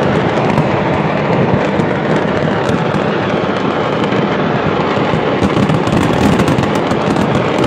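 A stockpile of fireworks exploding en masse: a loud, continuous crackle of bangs and pops, with sharp cracks crowding in more thickly near the end.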